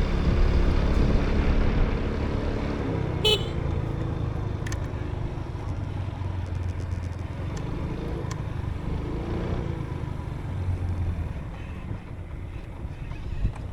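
Motorbike engine running, growing fainter over the stretch, with one short horn beep about three seconds in.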